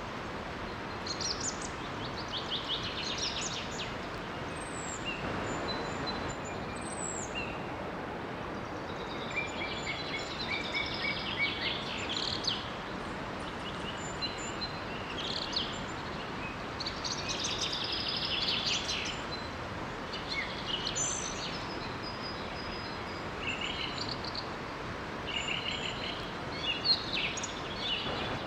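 Several songbirds singing and chirping in short, repeated phrases, some with quick pitch sweeps, over a steady rush of water from a small waterfall.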